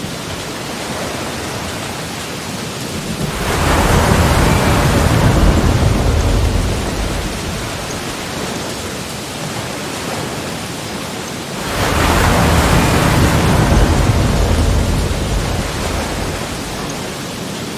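Sea waves breaking, two of them about eight seconds apart, each surging in suddenly and then washing away over several seconds, with the steady hiss of the surf between.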